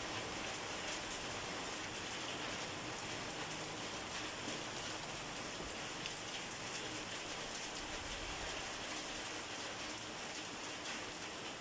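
Steady rain falling: an even hiss with individual drops standing out now and then.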